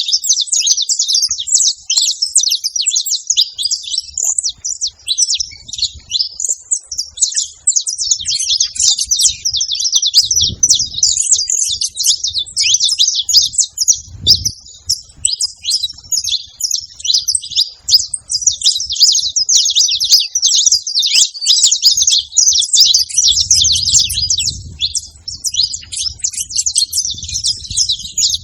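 Saffron finch singing: a long, rapid run of bright chirping notes, pausing only briefly a few times.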